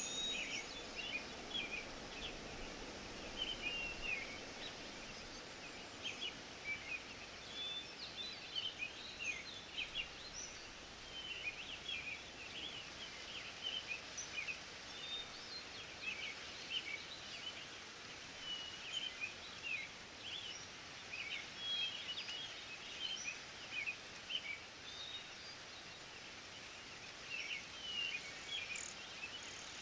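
Forest ambience: many small birds chirping and twittering in short, scattered calls over a steady background hiss of breeze and leaves. It starts abruptly with a short click.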